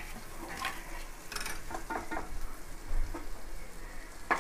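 Onion and tomato sizzling in oil in a pressure cooker pan, with a wooden spatula scraping and knocking against the pot a few times as it stirs.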